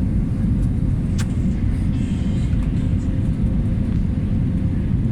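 Steady low rumble of an Airbus A320's engines and airflow, heard from inside the passenger cabin, with a faint steady hum. A single sharp click about a second in.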